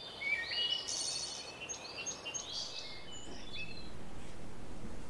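Birds chirping in quick, short calls over a steady hiss; the birdsong stops about three seconds in, leaving the hiss.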